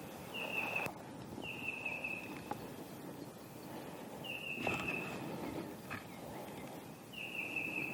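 A bird whistles a short, slightly falling note four times, with a couple of sharp snaps and rustles in dry leaves in between.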